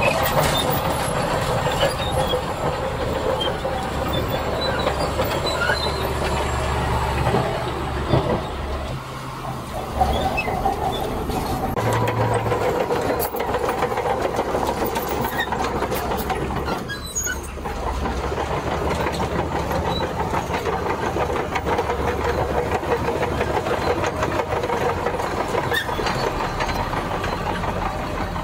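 Diesel crawler earthmover, a bulldozer or excavator, working in sand: steel tracks clanking and squealing over a steady engine rumble, with scattered metallic clicks.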